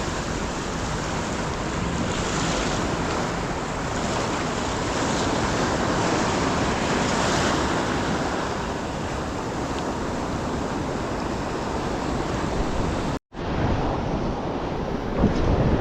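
Ocean surf washing onto the beach in a rough, picking-up sea, with wind buffeting the microphone. The sound drops out for a split second about 13 seconds in and then carries on.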